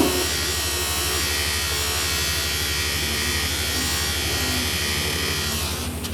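Workshop machinery running with a steady electric buzz over a low hum, with a short knock right at the start.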